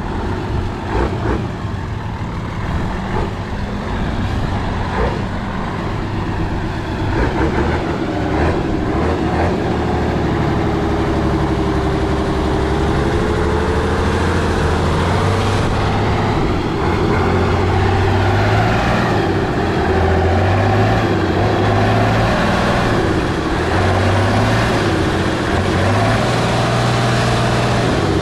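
Heavy off-road trial truck's diesel engine working hard, its pitch rising and falling as it is revved, getting louder after about seven seconds, with a few knocks early on.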